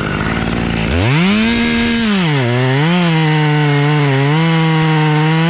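Chainsaw idling, then throttled up sharply about a second in. Its pitch drops and wavers as the chain bites into the wood and the saw runs under load through the cut, falling away right at the end.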